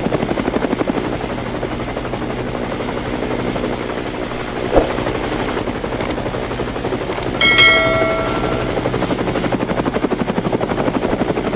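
Helicopter rotor chopping with a fast, steady pulse as the helicopter carries a car away. A brief ringing tone sounds about two-thirds of the way through.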